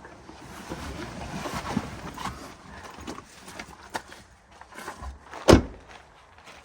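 Footsteps and rustling, then one loud thud about five and a half seconds in: a car door shutting.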